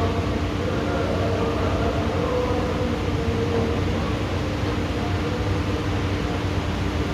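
Heavy rain of a tropical thunderstorm pouring down steadily, a constant rushing noise with a steady low hum underneath.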